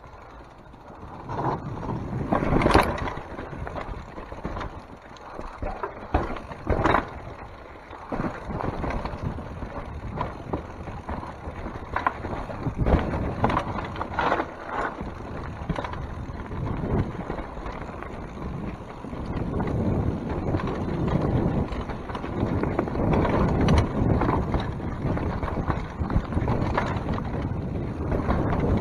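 Mountain bike rolling over a wet, rocky trail: tyre noise and chain and frame rattle, with sharp knocks as it hits rocks a few times, and wind rushing on the microphone.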